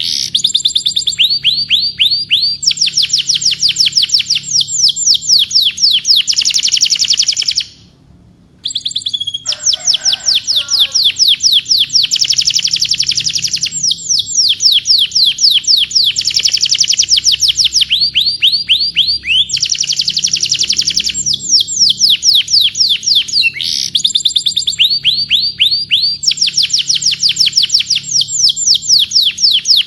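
Domestic canary singing long, rapid trills of repeated high notes, each sweeping downward, that change pace from phrase to phrase. The song breaks off for about a second roughly eight seconds in.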